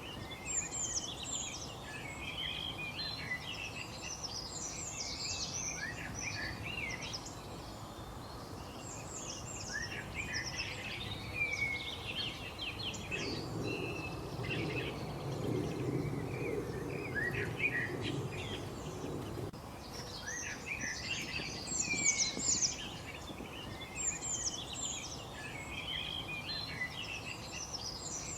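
Several small birds chirping and singing in quick, overlapping short phrases over a steady background hiss. A low rumble joins in for several seconds midway.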